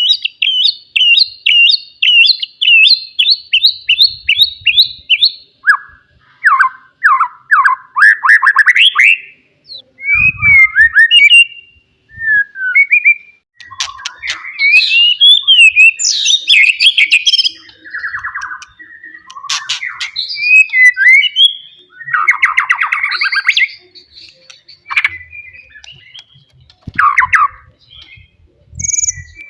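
White-rumped shama singing loudly: it opens with a run of quickly repeated whistled notes, then moves through changing phrases of slurred whistles, chatters and fast rattling trills.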